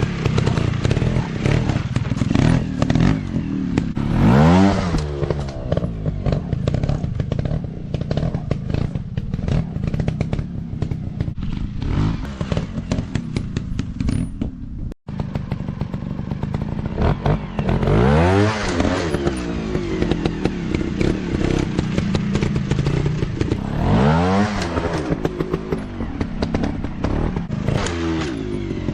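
Small dirt-bike engines running hard and revving, their pitch rising and falling several times, with clattering from the bikes. The sound cuts out for an instant about halfway through.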